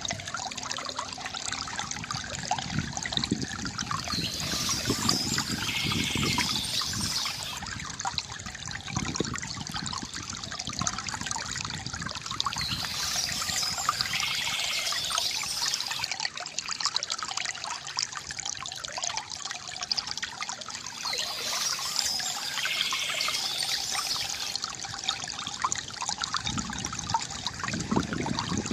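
Water trickling and splashing from a bamboo fountain spout, steady throughout. Birds chirp over it, in short spells that come back about every eight to nine seconds.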